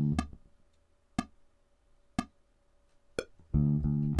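Electric bass guitar playing a quick figure of short notes, about one beat long, over a metronome click ticking once a second. The bass stops just after the start; the clicks carry on alone, and a second quick bass figure comes in near the end.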